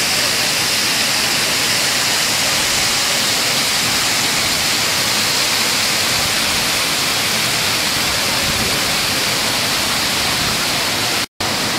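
Water curtain falling in a continuous sheet, a steady, loud rush of splashing water. The sound cuts out completely for a split second near the end.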